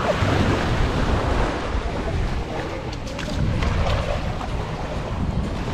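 Waves washing onto a sandy beach, with wind buffeting the microphone.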